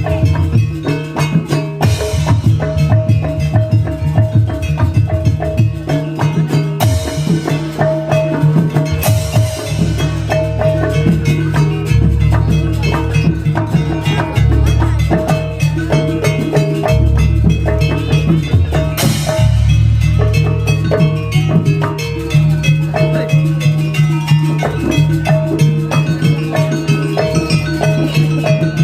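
Gamelan-style percussion music: drums with struck metal-keyed instruments repeating a short melodic figure, with occasional cymbal-like splashes.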